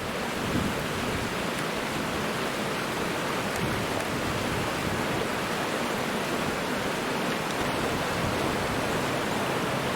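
Steady rushing of a creek and waterfall, an even, unbroken hiss of falling water.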